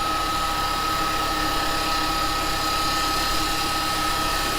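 Wood lathe running steadily with a cherry bowl blank spinning on it: an even motor hum with a constant high whine.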